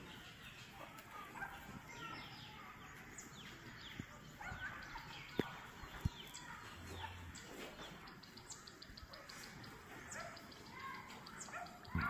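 Birds chirping and twittering, with many short, quick calls overlapping, and two sharp clicks about five and a half and six seconds in.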